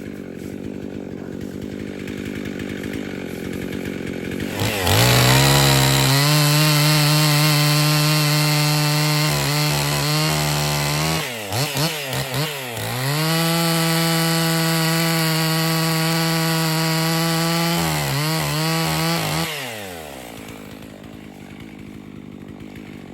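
Husqvarna 55 two-stroke chainsaw idling, then opened to full throttle about five seconds in and held there, the revs dipping and picking up again around the middle, before dropping back to idle near the end. The chain, freshly sharpened, is most likely bucking a log while at full revs.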